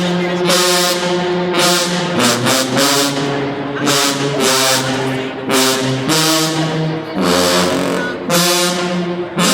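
HBCU marching band brass section blasting a loud fanfare of sustained chords that shift pitch several times, with cymbal crashes about once a second.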